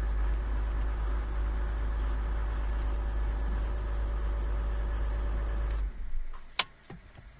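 A 1.4 HDi four-cylinder turbodiesel idles steadily, cold-started, then stops suddenly about six seconds in. A few sharp clicks follow.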